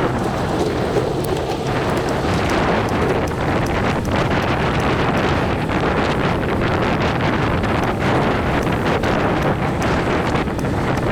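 Steady wind noise buffeting the microphone of a camera carried on a moving bicycle.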